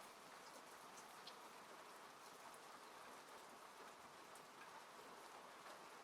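Faint steady rain falling on a car, heard from inside the cabin, with scattered individual drops ticking on the body and glass.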